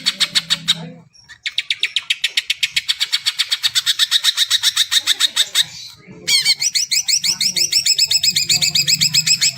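Green leafbird (cucak ijo) singing in long, fast trills of rapidly repeated high notes, with a short break about a second in and another near six seconds; the last trill is made of quick slurred notes. A faint low hum runs underneath.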